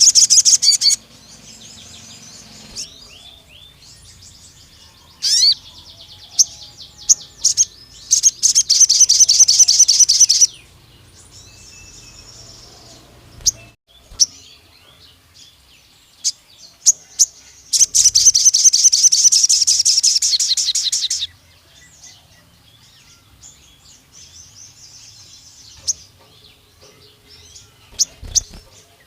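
A sogon bird singing: long, rapid trills of high repeated notes, one lasting about two and a half seconds around eight seconds in and a longer one of about three and a half seconds around eighteen seconds in, with short chirps and calls in between.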